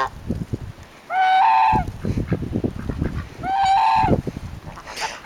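Geese honking: two loud calls about two seconds apart.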